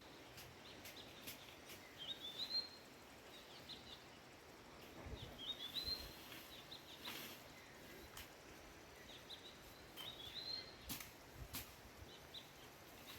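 A songbird singing a short rising phrase three times, a few seconds apart, faint over a steady outdoor hiss, with scattered sharp clicks.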